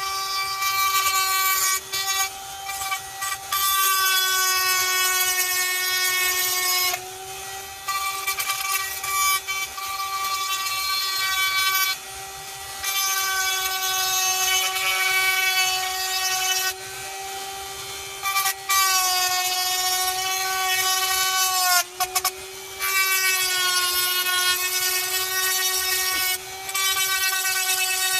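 Small air compressor running steadily, with a hiss of air spraying paint in on-and-off bursts of a few seconds each.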